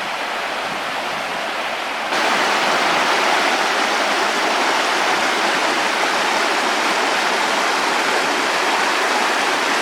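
Rushing water of a rain-swollen creek, a steady dense rush that gets abruptly louder about two seconds in.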